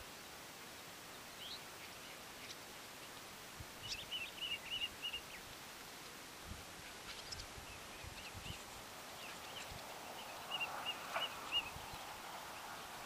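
Faint background noise with two short runs of quick, high bird chirps, about four seconds in and again near the end.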